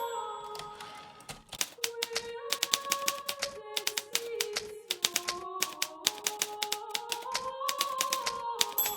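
Hermes Baby portable typewriter being typed on: quick runs of sharp key strikes, with a short lull about a second in. Soft background music with slowly changing held notes plays underneath.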